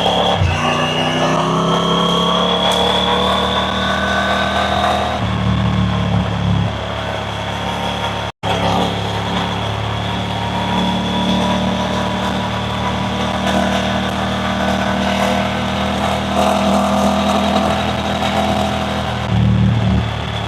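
Triumph Tiger 900 Rally Pro's three-cylinder engine running under way, rising in pitch as it accelerates over the first five seconds, then holding a steadier pace. The sound cuts out for an instant a little before halfway.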